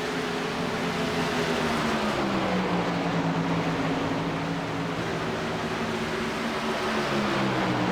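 Truck engine running steadily, its pitch dropping about two seconds in and again near the end.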